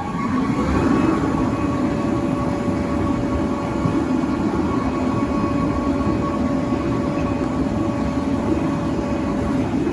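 Fire department aerial ladder truck running, its engine and hydraulics rising in pitch about a second in and then holding a steady whine over a dense running noise.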